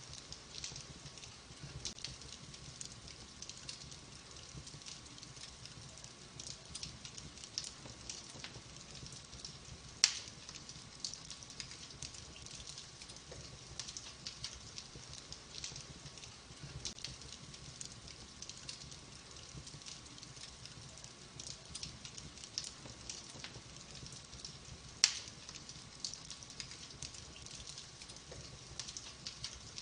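Wood fire burning in a fireplace, with steady fine crackling and two sharp, much louder pops, one about ten seconds in and one near twenty-five seconds.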